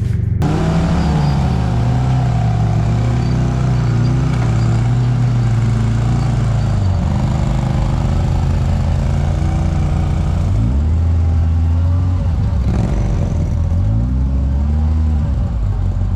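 Side-by-side UTV engine running under load on a trail, its revs holding, dropping briefly twice, then rising and falling in quick blips near the end.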